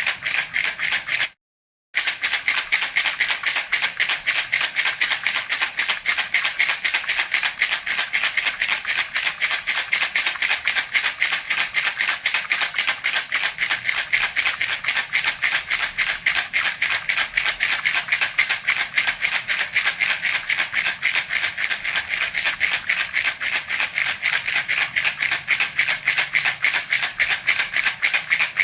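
Baby's rattle (jhunjhuna) shaken in a rapid, steady rhythm, its beads rattling in a fast even patter. The sound drops out completely for about half a second roughly a second and a half in, then carries on unchanged.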